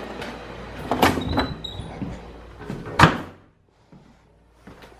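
A door opening and then shutting with a sharp bang about three seconds in. The steady hum of the running air conditioner beneath it drops away after the door shuts.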